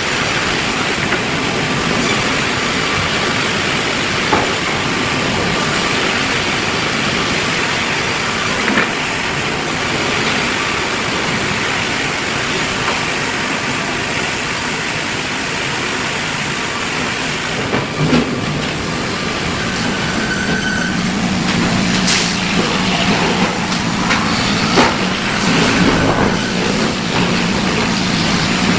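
Sawmill machinery running: a loud, steady mechanical din. A high whine stops about 18 seconds in, and a low hum with a few sharp knocks takes over from about 20 seconds.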